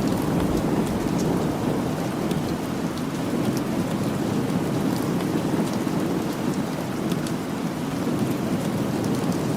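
Steady rain with a low, continuous rumble underneath and faint scattered ticks.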